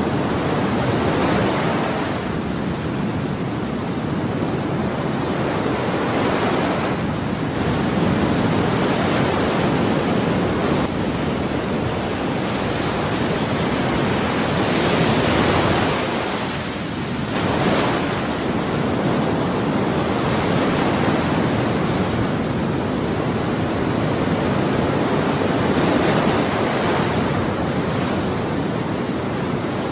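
Ocean waves breaking and washing on a shore: a continuous rush of surf that swells and eases every few seconds.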